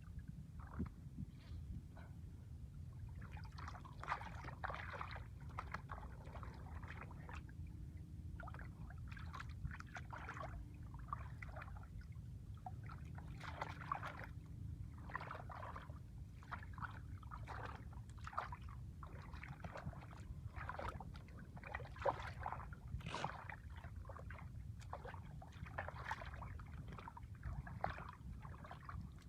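Shallow water splashing and sloshing in frequent irregular bursts as fish are caught by hand in a draining pool, over a steady low rumble.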